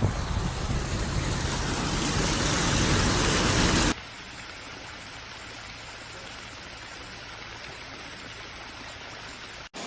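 Steady rushing noise of fast-flowing floodwater. It is loud for about four seconds, then cuts abruptly to a quieter, even rush.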